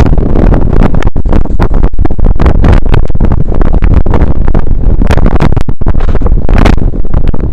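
Strong wind buffeting the microphone: a loud, overloaded rumble broken by many sharp crackles and pops.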